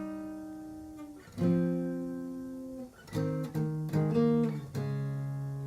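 Martin GPCPA4 acoustic guitar strumming chords, each left to ring and fade. One chord comes about a second and a half in, then a quicker run of strokes from about three seconds in.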